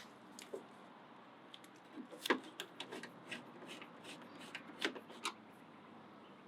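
Faint scattered clicks and rubbing from plastic door trim being handled and fitted back onto the car door.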